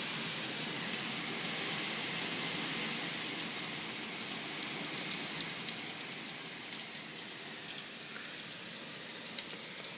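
Heavy hurricane rain falling as a steady hiss that eases somewhat over the second half, with a few faint drip ticks.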